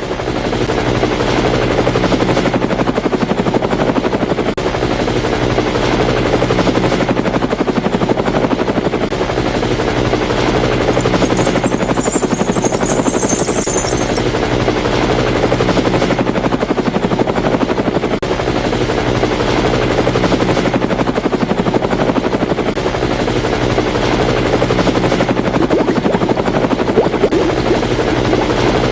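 A steady mechanical whir with a constant buzzing hum that runs without a break, with a thin high whine over it. A brief high hiss joins it about twelve seconds in.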